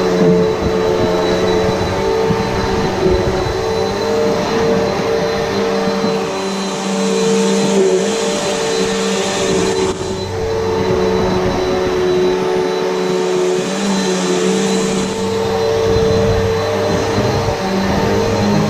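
Upright vacuum cleaner running steadily over carpet: a constant motor hum with rushing airflow. Its low rumble eases off twice for a few seconds each.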